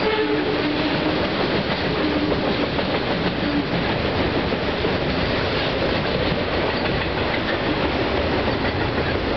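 Autorack freight cars rolling over a steel trestle bridge: a steady, loud noise of wheels running on the rails and rattling over the bridge, without a break.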